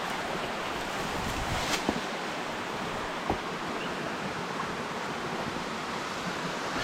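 Steady rush of water from a small waterfall, with a couple of small knocks about two and three seconds in.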